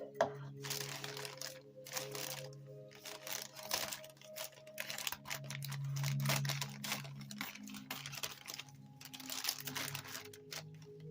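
A cardboard package being opened by hand: irregular crinkling, rustling and tearing of packing material and tape, with scattered clicks.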